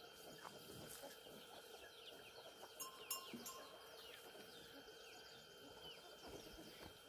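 Near silence with faint animal calls: many short, falling chirps and a few light clicks over a faint steady high tone.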